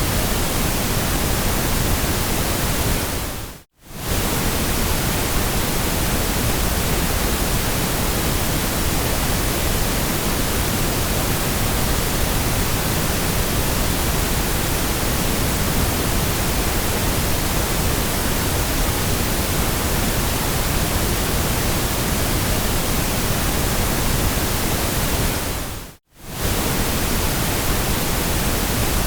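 Steady white noise hiss, even from low to high, that drops out sharply for a moment twice: about four seconds in and near the end.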